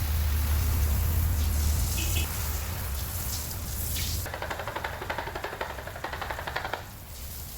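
Water spraying onto a car, with a low machine hum beneath it for the first two seconds. From about four seconds in the spray breaks into a fast, fluttering patter.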